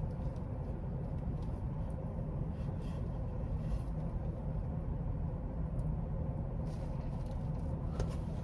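Steady low hum of a car engine running, heard from inside the vehicle, with a few faint clicks and rustles, the clearest near the end.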